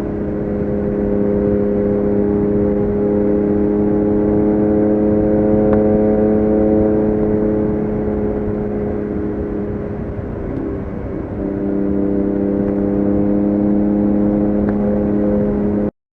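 BMW K1600GTL motorcycle's inline-six engine running under way at a nearly steady pitch. About ten seconds in it dips and wavers briefly, then comes back at about the same pitch, and it stops suddenly at the very end.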